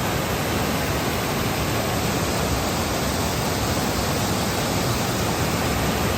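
Waterfall rushing close by: the steady, unbroken noise of falling water at Johnson Falls.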